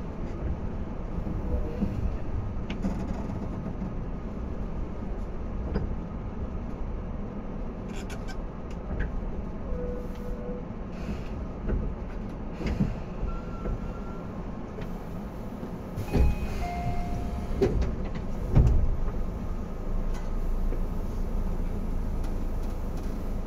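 Inside a Tobu 10030 series commuter train car: a steady low rumble with scattered knocks, a few short single tones, and heavy thuds about two-thirds of the way through, typical of the car's sliding doors working at a station stop.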